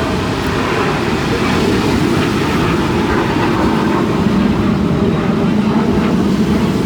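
Low, steady rumbling drone of an aircraft flying over the airshow, with a steadier hum coming up about halfway through and wind buffeting the microphone.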